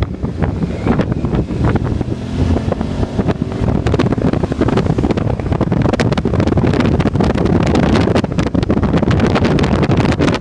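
Wind buffeting the microphone of a moving motorcycle, over the motorcycle's engine running.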